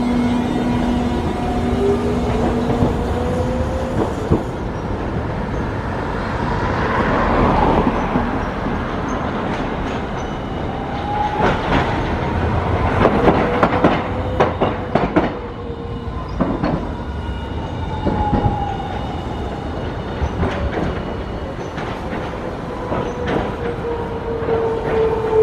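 Hiroshima Electric Railway streetcars running through a tram stop: a drive whine rising in pitch as one pulls away, a cluster of sharp wheel clacks over the rail joints in the middle, and a whine falling in pitch near the end as a tram slows.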